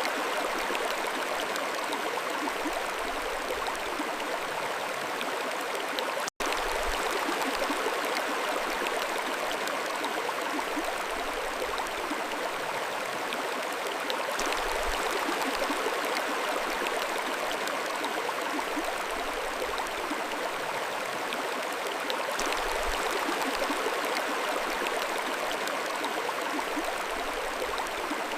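Mountain stream flowing: a steady rush of water, with a split-second dropout about six seconds in.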